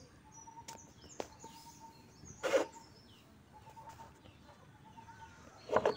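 Birds chirping in the background, with one short call repeated about once a second under higher, quicker chirps. Two short loud bumps stand out, one about two and a half seconds in and one near the end.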